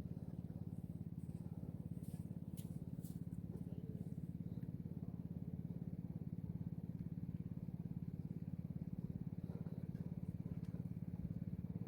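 A small engine running steadily at a low, even pitch with a fast regular pulse, with a few faint clicks about two to three seconds in.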